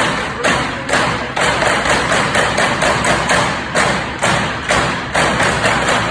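Drums played in a fast, steady rhythm, many rapid strokes with strong accented hits about twice a second.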